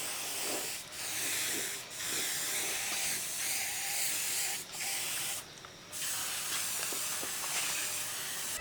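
Compressed-air spray gun hissing in long passes, broken by several short pauses and one longer pause of about half a second near the middle.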